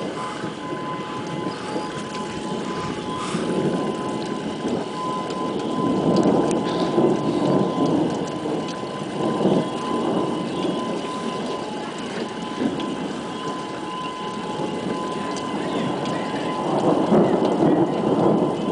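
Thunderstorm noise: a dense wash of wind and rain that swells and eases every few seconds, with no clear single thunderclap.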